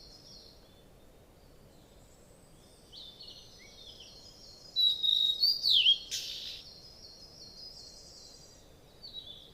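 Small birds chirping: high, short chirps and quick sweeping notes that start about three seconds in, loudest around five to six seconds in, then fainter, over a faint steady outdoor background.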